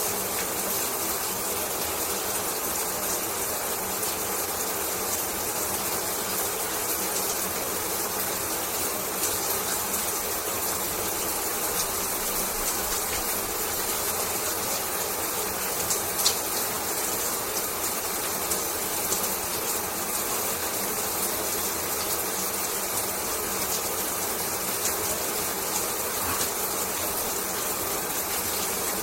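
Shower running steadily: water spraying and splashing in an even, continuous hiss with small scattered patters, and one sharper splash or tap about sixteen seconds in.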